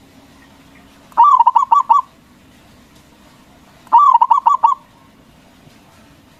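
Zebra dove (perkutut) singing its cooing song: two quick phrases of short, staccato coos, each under a second long, about three seconds apart.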